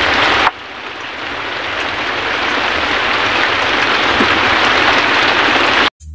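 Rain falling as a steady hiss. It drops suddenly in level about half a second in, builds slowly again, and cuts off abruptly near the end.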